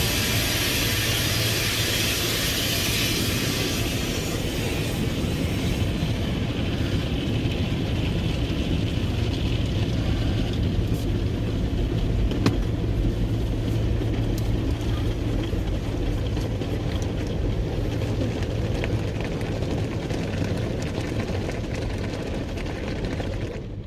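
Automatic car wash machine running, with a steady motor hum under a wash of hissing noise that is strongest in the first few seconds and then eases. There is a single sharp tick about halfway through, and the sound drops away abruptly just before the end.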